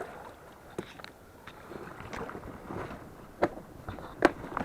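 A small boat being handled at the water's edge before boarding: three sharp knocks, the loudest near the end, over a low wash of rustling noise.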